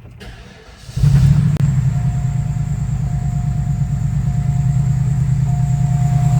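2003 Cadillac Seville's 4.6-litre Northstar V8 starting about a second in and settling into a steady idle. A faint steady whine runs over the idle from about two seconds in.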